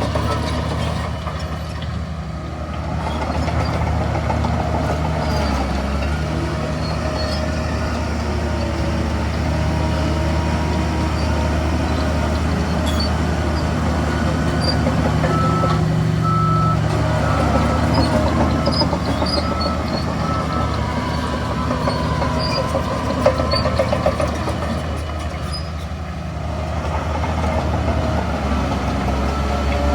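Heavy diesel engines of earthmoving machinery, a bulldozer and dump trucks, running under load, their pitch swelling and easing. A series of short high beeps is heard around the middle.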